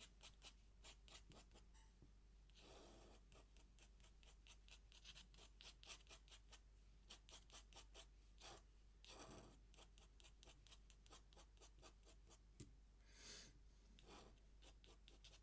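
Faint scratching of an ink pen's nib on paper: many quick short strokes and taps, with a few longer drawn strokes.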